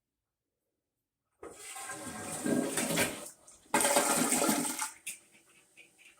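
Glacier Bay dual-flush toilet flushing: water rushing starts about a second and a half in, eases briefly, surges again louder around four seconds in, then dies down to a faint trickle as the tank begins to refill.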